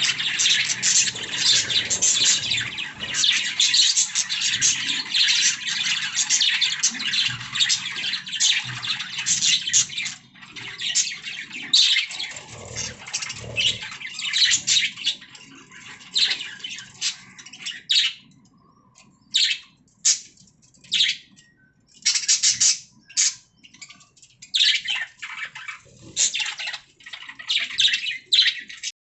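Budgerigars chirping: dense, busy chatter for about the first ten seconds, thinning to scattered single chirps with short gaps.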